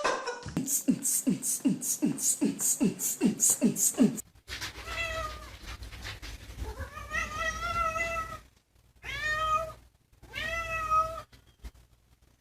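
A quick, even run of about ten short sounds, then a domestic cat meowing four times, the second meow the longest.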